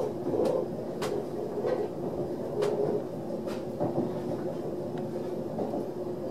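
Running noise inside an ÖBB Railjet passenger coach in motion: a steady rumble of the wheels on the track with a faint steady hum. A few sharp clicks are heard about 1, 2.5 and 3.5 seconds in.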